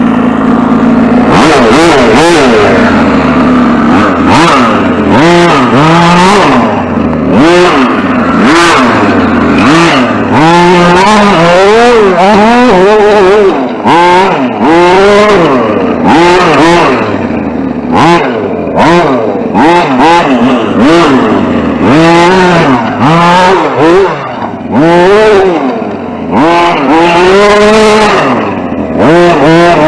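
Radio-controlled short course truck's motor whining, its pitch rising and falling over and over as the throttle is worked, with frequent short clattering bursts from the truck running over rough dirt.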